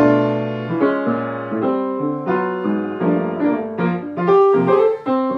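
Solo piano playing the opening chords of a traditional-style jazz tune. The first chord is struck suddenly out of silence, then a series of chord changes follows about every half second.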